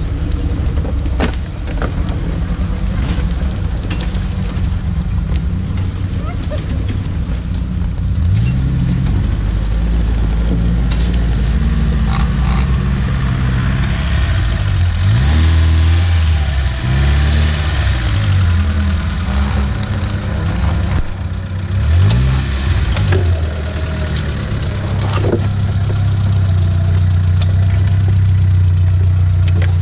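Off-road vehicle's engine running under load and revving up and down several times as it drives over rough ground, with a few sharp knocks and rattles from the bumps.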